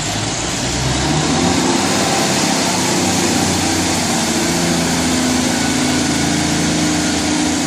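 Class 150 Sprinter diesel multiple unit departing, its underfloor diesel engines running hard under load with a steady engine note over a loud rush of noise.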